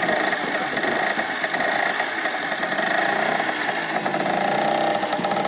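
Small two-stroke moped engine running steadily, a fast, even buzz of firing pulses, just after being started.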